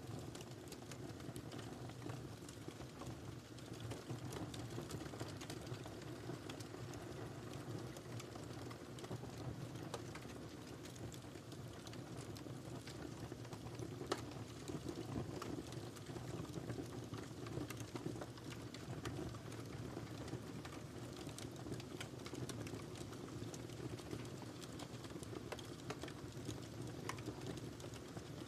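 Wood fire crackling in a fireplace: a steady low rumble of flames with frequent small crackles and pops, one sharper pop about halfway through.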